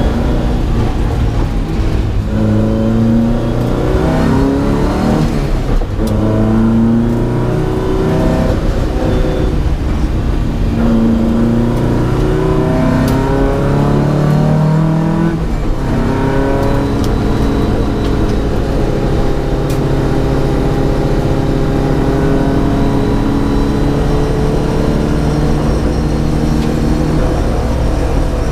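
Datsun P610 rally car's engine accelerating hard through the gears, its pitch climbing and dropping back at each shift several times over the first half. From about halfway it holds one long, slowly rising note.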